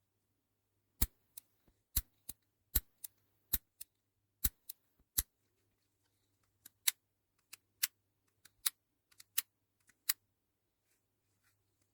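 Rebuilt Shimano ST-7S20 Nexus 7-speed shifter clicking as its single lever is worked through the gears: crisp ratchet clicks, mostly in pairs of a loud click and a lighter one. There are two runs of about five or six shifts each, with a short pause between them.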